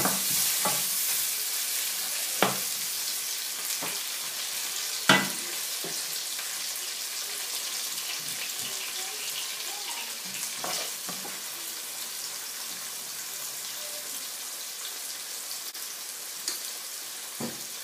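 Diced onion and yellow and green bell peppers, just added to hot oil, sizzling in a nonstick frying pan. The sizzle is strongest at first and slowly dies down. A wooden spoon stirs them, knocking sharply against the pan a couple of times in the first few seconds.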